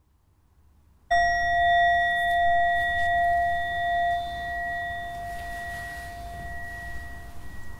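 A meditation bell struck once about a second in, then ringing on with a clear multi-tone ring that fades slowly; it marks the close of the silent listening period.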